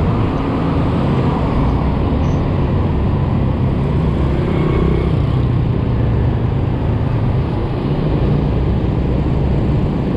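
Yamaha scooter of about 125 cc running at a steady cruising speed in city traffic, its small engine's steady drone under heavy wind buffeting on the microphone.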